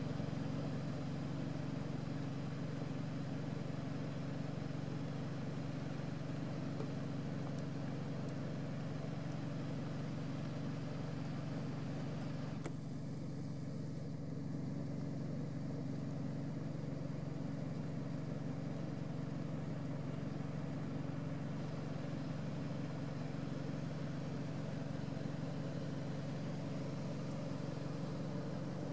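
Car engine running with a steady low hum, heard from inside the car's cabin.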